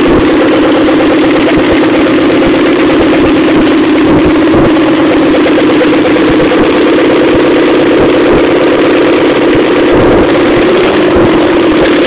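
Vauxhall Astra Mk1 GTE's turbocharged four-cylinder engine idling loudly and steadily on its first start-up after a full rebuild, its note rising a little near the end.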